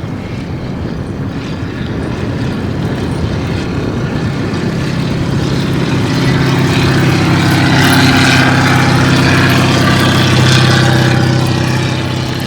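A heavy vehicle's engine running steadily, growing louder to a peak and then easing off near the end.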